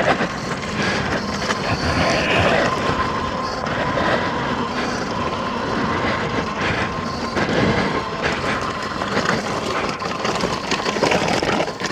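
X Pro dirt bike running while being ridden over a rough trail, with steady wind and road noise and frequent rattling knocks from bumps.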